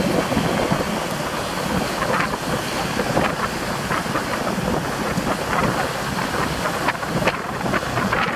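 Train pulling into the station on a side track: a steady rumble of wheels on rail with many short clanks and rattles, and wind buffeting the microphone.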